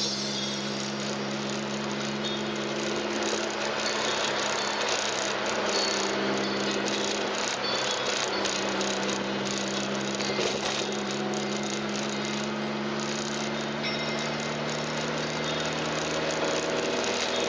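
Classic car's engine running steadily at cruising speed, heard from inside the cabin together with road and wind noise; its note shifts slightly a few seconds in and again near the end.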